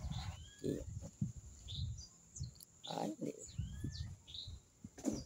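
Birds calling: a few short chirps and two curving whistled notes, over low rumbling and a few short, low sounds.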